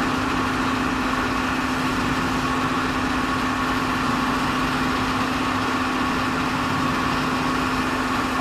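Steady machinery hum with one constant low tone and a fainter higher one, unchanging throughout.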